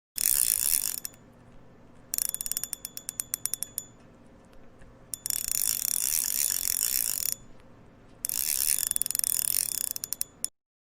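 Fishing reel's drag ratcheting in four spells as line is pulled off it by a hooked fish. Most spells are a fast, continuous buzz of clicks; one, about two seconds in, is a run of separate, slower clicks.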